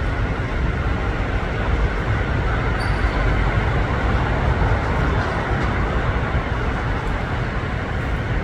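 Jet aircraft engines running, a steady broad rumble that holds at much the same level throughout.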